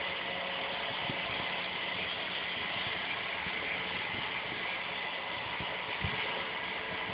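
Robot vacuum cleaner running: a steady whir of its motor and suction fan, with a couple of soft knocks.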